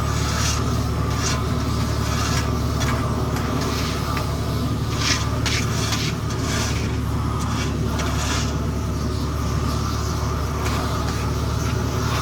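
Paving equipment's engine running steadily, with repeated short scraping strokes of hand tools working over asphalt.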